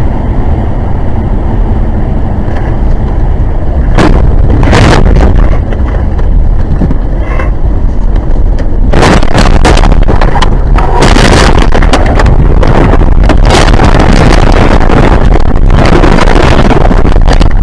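Loud, distorted vehicle noise on a dashcam microphone: a constant heavy rumble broken by repeated sharp bangs and rushes of noise.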